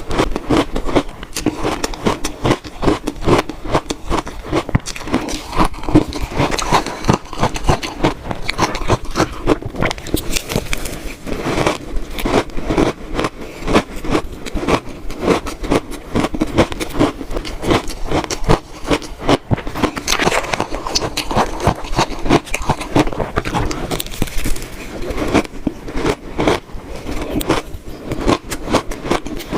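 Close-miked crunching of frozen shaved ice being bitten and chewed, a dense run of many crisp crunches and crackles a second that goes on without a break.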